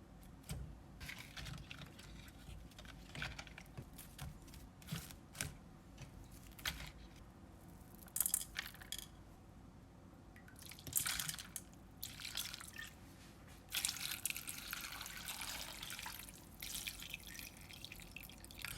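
Quiet kitchen handling sounds: a scattered series of light clicks and knocks, then water running for about four seconds near the end.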